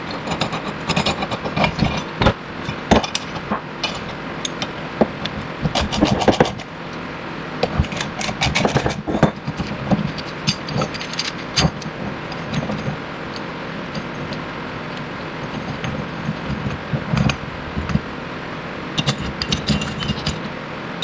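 Steel hand tools and a bearing splitter clinking and scraping against metal in irregular clusters of sharp clicks, as a stuck inner wheel bearing race is worked off the hub. The busiest stretch comes about six to nine seconds in.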